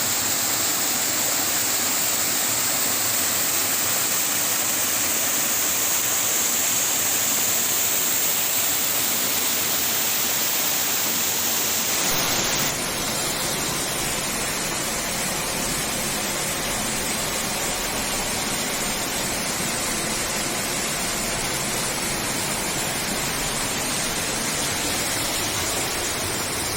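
Waterfall on a mountain stream, water rushing steadily. About halfway through the sound changes abruptly, losing its strong high hiss and taking on more low rumble.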